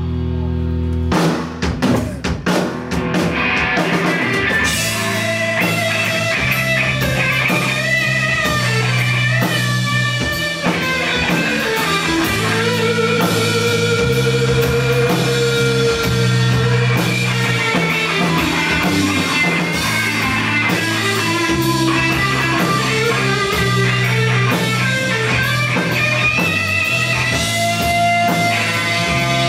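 Rock band playing live through an instrumental passage with no singing: a burst of drum hits about a second in, then full band with drums, bass and a lead electric guitar playing held, bending melody lines.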